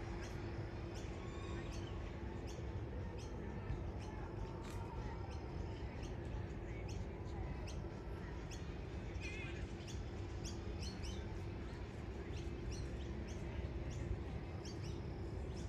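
Birds chirping in many short, sharp calls over a steady low rumble of outdoor background noise, with a faint steady hum underneath.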